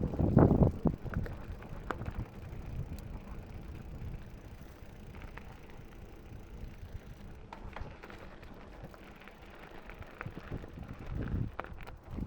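Mountain bike rolling down a rough trail, with wind rumbling on the GoPro microphone and scattered sharp clicks and rattles from the bike. The rumble is loudest in the first second and again near the end.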